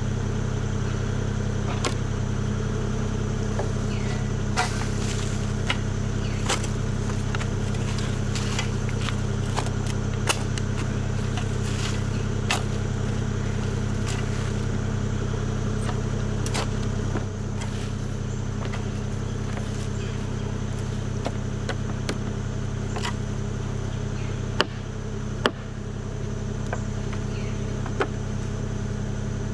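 Compact excavator's diesel engine running steadily, with scattered sharp clicks and knocks from hand work on top.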